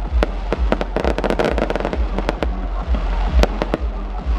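Fireworks display: a dense, uneven barrage of sharp cracks over repeated deep booms of aerial shells bursting, several a second.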